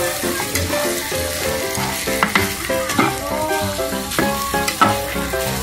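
Chicken and tofu cubes sizzling in oyster sauce in a frying pan, stirred and scraped with a metal spatula in short clicks and scrapes. Background music plays a melody over it.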